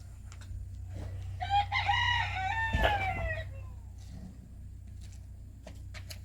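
A rooster crowing once, a call of about two seconds starting about a second and a half in and trailing off at the end, with a steady low hum underneath.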